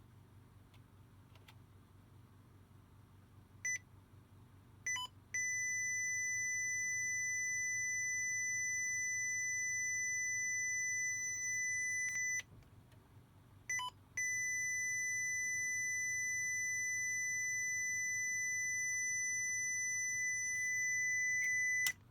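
Computer's built-in beeper sounding a high, steady tone in a pattern: one short beep, two quick beeps, then a long unbroken tone of about seven seconds. After a short pause comes another short beep and a second long tone of about eight seconds that cuts off suddenly.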